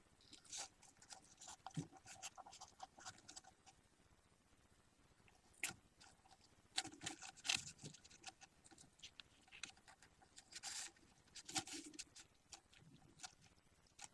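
Faint, irregular scratching, rustling and clicking of budgie chicks moving about.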